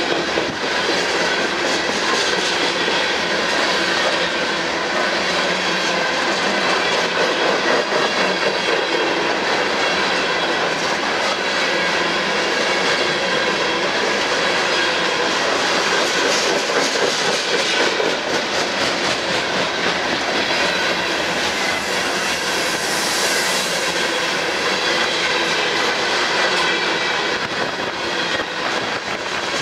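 Coal hopper cars of a freight train rolling past close by: a steady rumble and clatter of steel wheels on the rails, with high, thin squealing tones from the wheels throughout.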